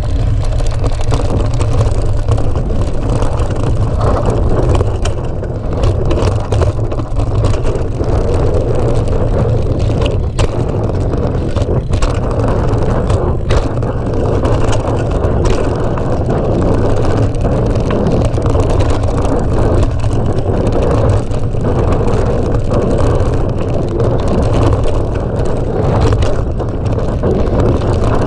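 Wind rumbling on the microphone of a mountain bike ride, with scattered sharp knocks and rattles from the bike going over bumps.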